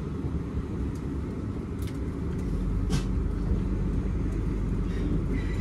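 Low rumble inside the carriage of a South Western Railway Class 444 Desiro electric train, which deepens and grows a little louder about two and a half seconds in. A few sharp clicks sound over it.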